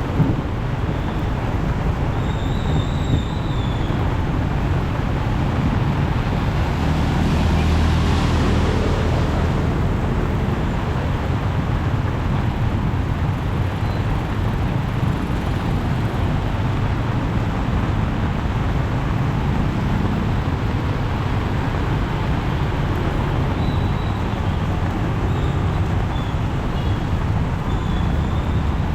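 Steady rush of heavy rain mixed with road traffic on a flooded street, with a vehicle going by about eight seconds in.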